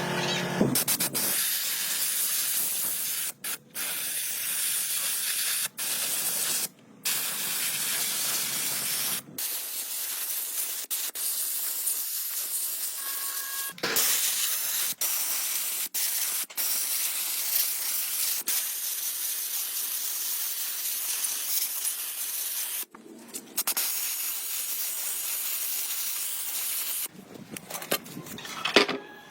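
Hissing spray, in long steady bursts broken by several brief pauses, stopping shortly before the end.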